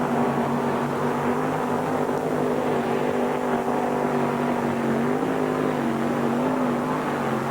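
Mini modified pulling tractor's engine at full throttle under load during a pull, a loud steady drone whose pitch wavers and rises slightly about five seconds in.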